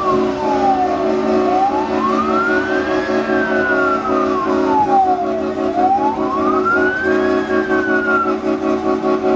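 A truck's wailing siren sweeps slowly up and down, two and a half cycles, and stops near the end. Underneath it a multi-note air horn holds a steady chord the whole time.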